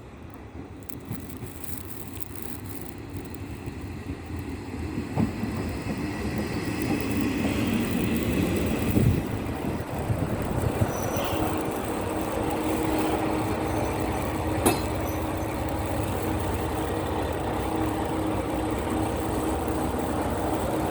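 Sanriku Railway diesel railcar running at the station, growing steadily louder through the first half and then holding a steady engine tone, with a few sharp clanks from the wheels and rails.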